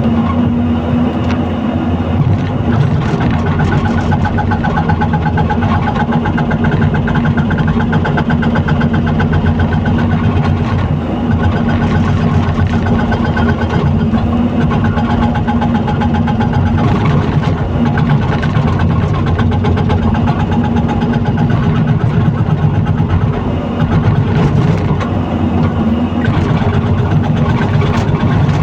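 Heavy excavator's diesel engine running steadily at a constant speed.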